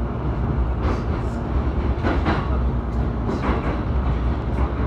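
JR Saikyo Line commuter train running, heard from inside the car: a steady low rumble with a short clack from the wheels every second or so.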